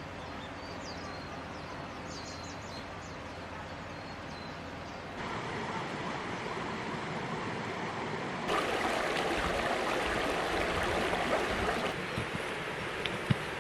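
Outdoor ambience: a steady rushing noise that grows louder in steps about five and eight seconds in, with faint high chirps early on and a few sharp clicks near the end.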